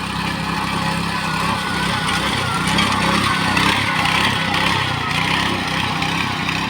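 Rice harvesting machine's engine running steadily, with a wavering higher whine over the drone.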